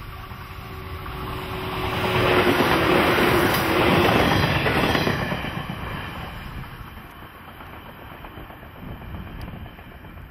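Electric multiple-unit train passing close by on the line, building up as it approaches, loudest about two to five seconds in, then fading as it runs away down the track.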